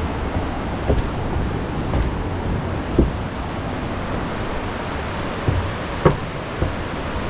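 Steady rushing of the Aare River through its limestone gorge, with a few short thumps scattered through it.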